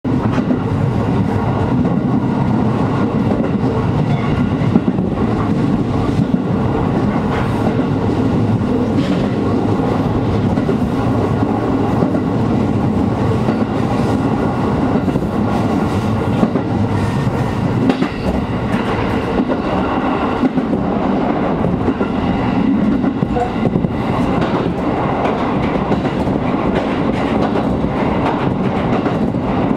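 JR Agatsuma Line train running along the track, heard from inside a passenger car: a steady rumble of wheels on rails with scattered clicks.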